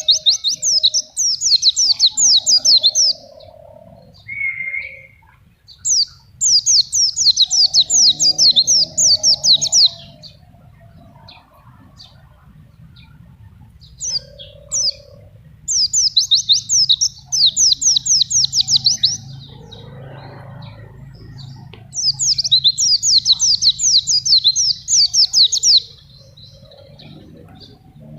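White-eye (pleci) singing in four bursts. Each burst is a fast run of high, falling, sweeping notes, about five a second, lasting three to four seconds, with a few short, lower chirps in the gaps.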